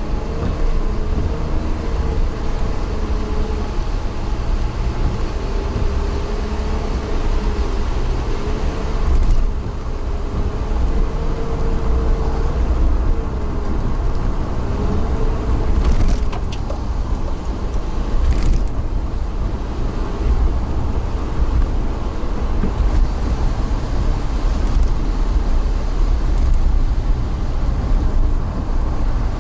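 Steady low rumble of a moving vehicle, with a wavering engine whine in the first half and a few sharp clicks.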